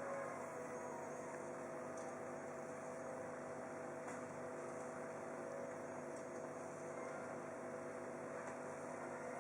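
Steady electrical hum with faint hiss: room tone, with a couple of faint ticks.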